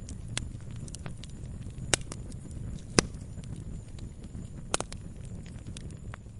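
Campfire burning: irregular sharp crackles and pops from the burning wood over a low steady rush, with the loudest pop about three seconds in.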